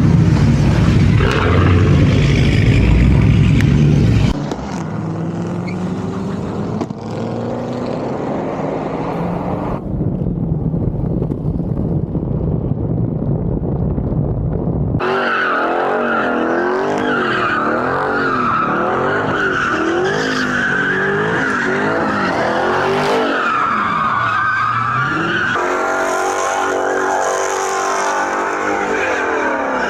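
A car engine running loud at high revs, then tires squealing in a long skid, the squeal's pitch wavering up and down over the second half.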